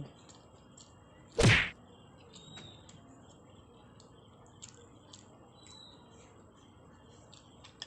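A single short, loud thump about one and a half seconds in, followed by faint scattered clicks and ticks.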